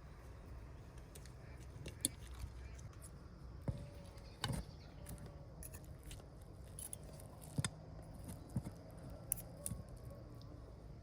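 Scattered light clicks and taps, several louder ones among them, over a low steady rumble.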